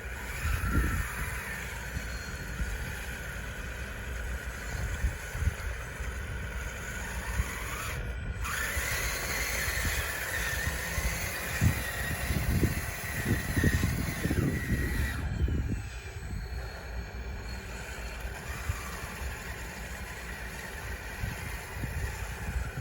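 Small electric drive motors and gearboxes of a radio-controlled bulldozer whining as it works, with wind gusting on the microphone.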